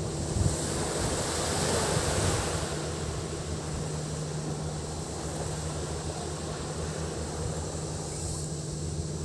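Sea waves washing onto the beach, one wash swelling about two seconds in and easing off, over a steady high drone of cicadas. A low wind rumble on the microphone and a faint steady low hum sit underneath.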